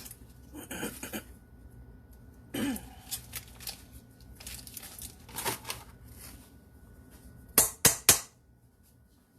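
Kitchen handling sounds: rustling and light knocks of utensils and packaging on a counter, then three sharp clacks in quick succession near the end.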